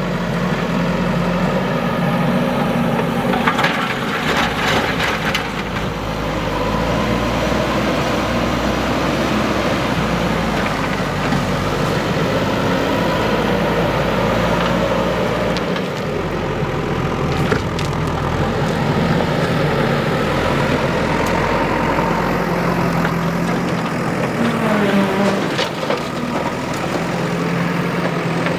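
JCB 3DX backhoe loader's diesel engine running under working load, its pitch shifting now and then, with a few brief crackling, crunching noises along the way.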